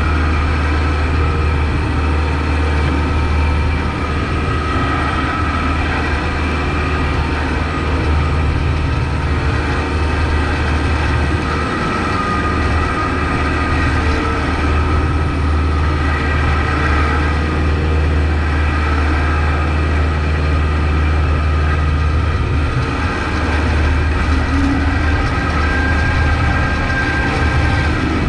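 Kubota MX5200 tractor's diesel engine running steadily: a heavy low drone, with a faint steady whine above it.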